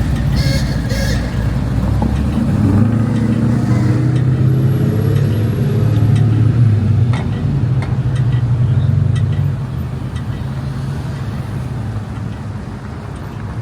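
A motor vehicle's engine running close by, its pitch rising a few seconds in, then falling off in level about nine and a half seconds in.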